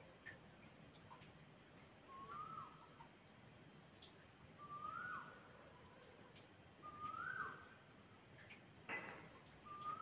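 A night bird's whistled call, rising then dropping sharply, repeated about every two and a half seconds, over a steady high chirring of night insects.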